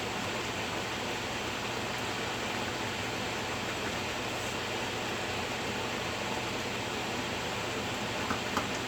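Steady hiss from the stove as a pot of menudo simmers, with two faint clicks near the end.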